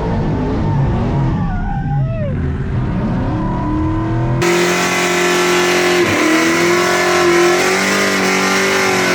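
Burnout truck's engine running hard while the tires squeal in a drift. About four and a half seconds in there is an abrupt cut to a steady, held high engine note with tire noise.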